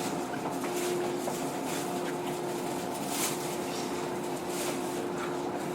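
Interior of a JR 115-series electric train standing at a station: a steady electrical hum from the car's auxiliary equipment and air conditioning, with a few faint brief noises over it.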